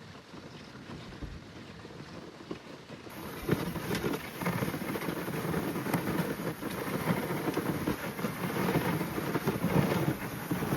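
Dog sled moving over snow: the runners scrape and hiss along the trail, with wind buffeting the phone's microphone. It gets louder from about three seconds in.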